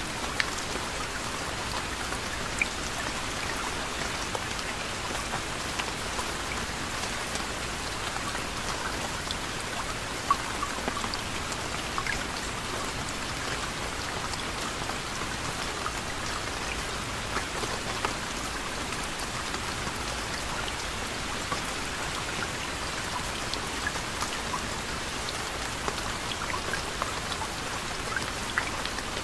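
Steady soft rain: an even hiss of rainfall with scattered individual drops ticking on a surface, one a little louder about ten seconds in.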